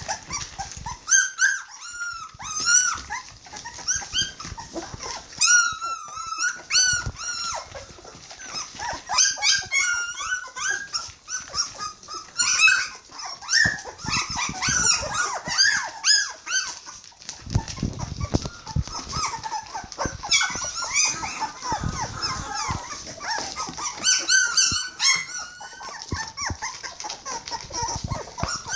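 A litter of three-week-old border collie puppies whining and squealing, with many high-pitched cries overlapping almost without pause. The puppies are hungry.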